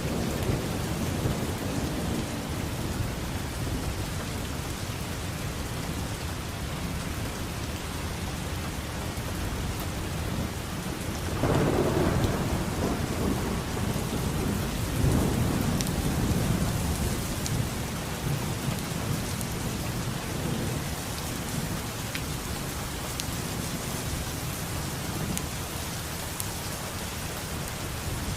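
Steady rain with thunder rumbling. A rumble fades out at the start, and two louder rolls of thunder come a little before and just after the middle.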